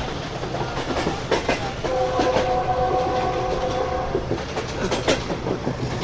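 Passenger train running, wheels clacking over rail joints with sharp knocks. A steady horn sounds for about two seconds, starting about two seconds in.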